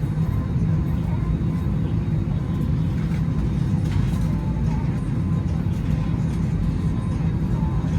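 Steady low rumble of cabin noise inside an Airbus A321neo on the ground before takeoff, with a faint steady whine above it.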